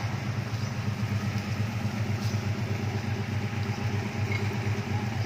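Off-road 4x4's engine idling steadily, a low rumble with a fast, even pulse.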